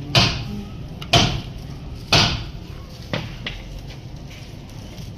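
Four sharp knocks about a second apart, then a fainter one, over a steady low rumble.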